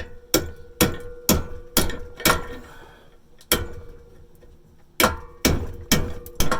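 Steel screwdriver repeatedly striking vise-grip pliers clamped on a rusted exhaust pipe, hammering the pipe round to work it out of the muffler inlet. It makes about ten sharp metallic blows, roughly two a second, with a pause in the middle, and the metal rings with a steady tone between strikes.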